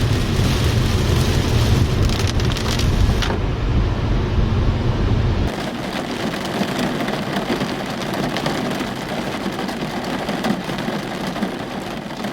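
Steady rain, with a heavy low rumble under it that stops abruptly about five and a half seconds in.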